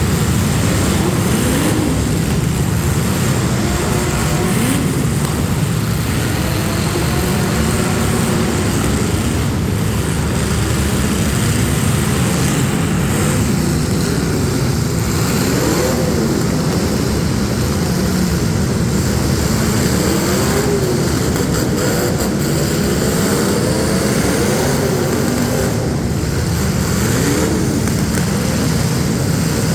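Several demolition derby street stock cars' engines running hard at once, a loud continuous din with pitches that keep rising and falling as the drivers rev and back off.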